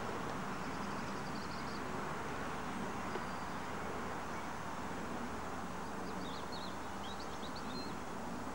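Steady background noise with faint, high bird chirps, a short run of them about six to seven seconds in.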